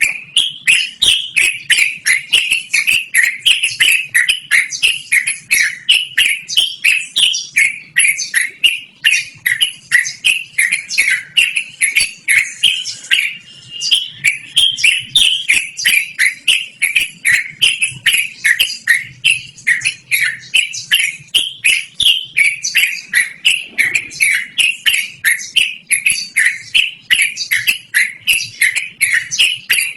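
Trucukan (yellow-vented bulbul) singing a long, unbroken rolling song of short sweeping chirps, about three a second.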